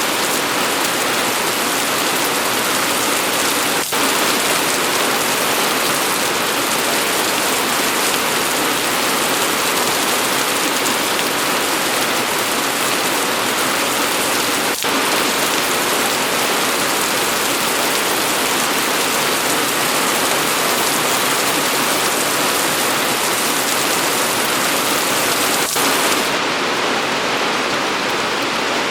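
Steady, dense rain falling, heard as an even hiss. It dips briefly three times, about eleven seconds apart, and the highest part of the hiss drops away near the end.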